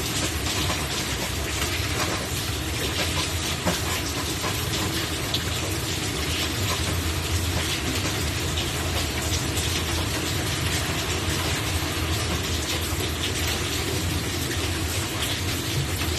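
Steady heavy rain: a constant hiss dotted with many small drop ticks, with a steady low hum underneath.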